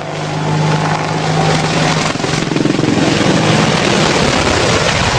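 Helicopter rotor and engine running loud and close, with a steady hum under the rotor noise that gives way to a rougher, more even roar from about two seconds in.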